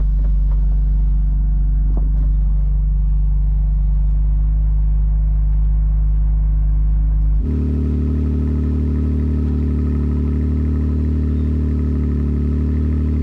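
BMW M4 Competition's 3.0-litre twin-turbo inline-six idling steadily. About seven and a half seconds in, the note changes suddenly to a fuller steady tone with more pitched lines, and a light click comes about two seconds in.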